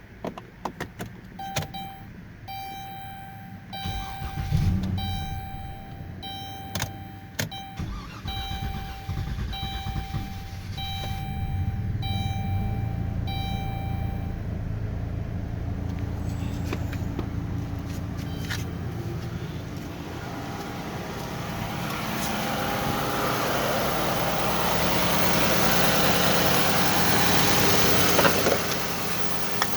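2013 Dodge Grand Caravan's 3.6-litre V6 being started and run after a head gasket replacement, with no coolant in yet. A dashboard warning chime beeps about once a second through the first half, with clicks and the start a few seconds in. The engine then runs steadily, and a rushing hiss builds over the last ten seconds.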